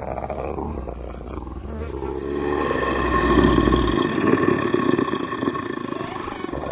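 Deep, rough monster growl like a beast's roar, swelling to its loudest about three to four seconds in, layered over a sustained eerie drone of held tones. A low rumble underneath cuts off about four seconds in.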